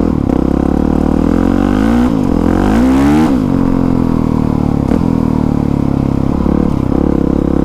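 2020 Honda CRF450R's single-cylinder four-stroke engine with an aftermarket exhaust, running at a steady trail pace. It revs up about two seconds in and drops back a second later.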